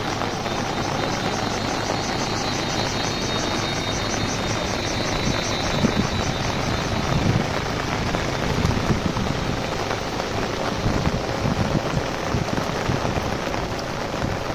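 Heavy rain falling steadily and drumming on an umbrella overhead. A fast, even, high-pitched pulsing of about five beats a second runs through the first half.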